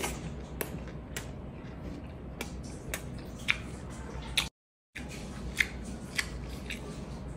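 Close-up mouth sounds of eating raw fish kinilaw with rice by hand: wet chewing and smacking with irregular sharp, sticky clicks, a few louder than the rest. The sound cuts out completely for about half a second partway through.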